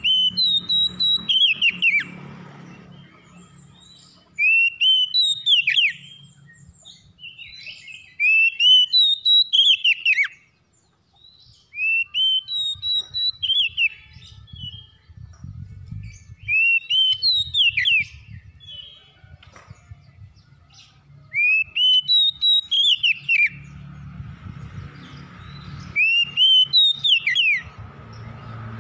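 Oriental magpie-robin (kacer) singing: a loud, whistled phrase of rising and falling notes, about two seconds long, repeated seven times every three to four seconds.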